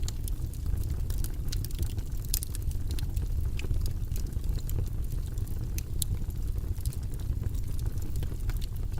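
Steady low rumbling white-noise ambience, with light irregular clicks scattered through it.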